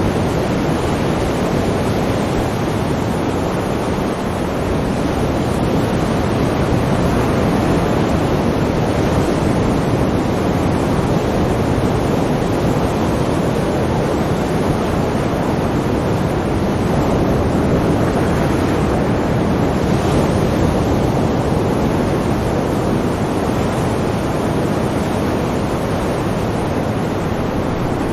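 Sea waves washing on the shore in a continuous, dense rush of surf, swelling and easing gently.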